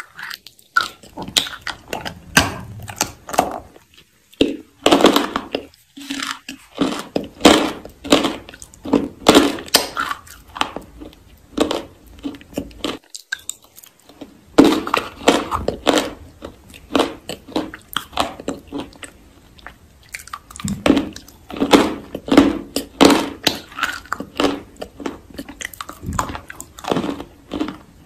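A person chewing crisp roasted food with crackly crunching bites, pausing briefly about four seconds in and again about halfway through.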